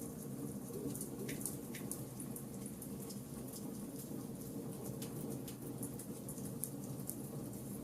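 Charcoal fire burning, with frequent small crackles and pops over a steady low rumble.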